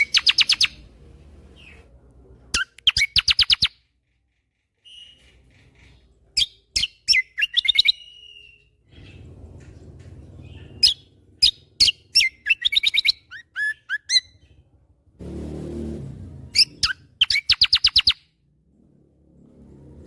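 Kecial kombo (cucak kombo) songbird singing in rapid, sharp trilled bursts, about five bursts each lasting around a second, a few seconds apart; this full-burst 'tembakan' song is used as a master recording to get other birds singing. A brief rush of low noise comes about three-quarters of the way through.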